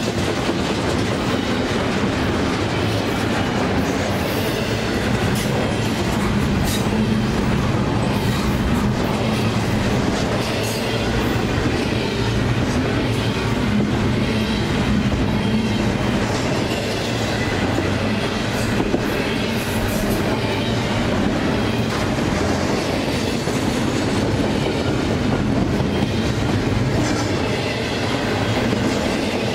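Freight train of double-stack container well cars rolling past close by: a steady rumble of steel wheels on rail, with a scatter of clicks and clacks as the wheels cross rail joints.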